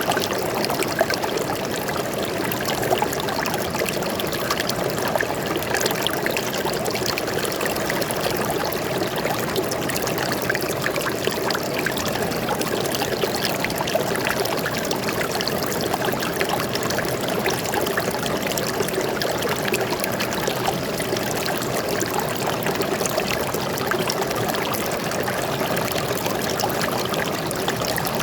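Water flowing and splashing steadily over rocks in a small forest stream, a continuous even rush with fine trickling splashes throughout.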